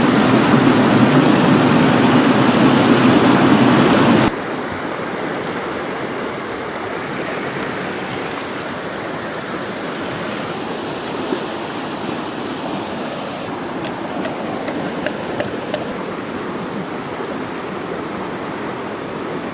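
Small river's water rushing over rocks in a steady flow. It is louder for the first four seconds or so, then drops abruptly to a softer, even rush.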